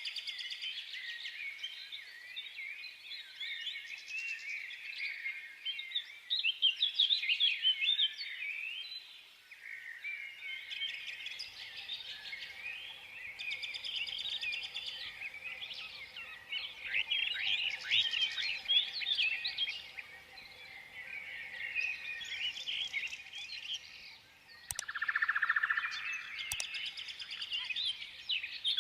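Many small birds chirping and chattering at once, a dense, continuous twittering of quick high notes, with a few sharp clicks near the end.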